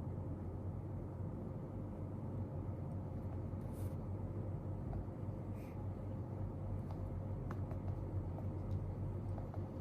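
Steady room background noise with a low hum and a faint constant tone. About four seconds in and again shortly after come two brief soft swishes, then a few faint light ticks from desk work.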